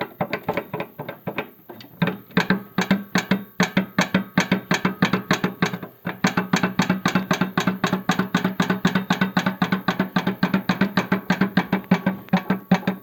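Buran snowmobile's two-stroke engine running with a steady, rapid knock. The owner suspects a collapsed needle bearing on the connecting rod at the crankshaft, or a loose wrist pin.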